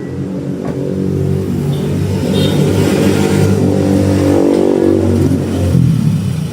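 Toyota Innova Reborn's 2GD-FTV turbo diesel, remapped to stage 1, revving through an HKS full-system exhaust. The note builds over the first seconds and drops back near the end.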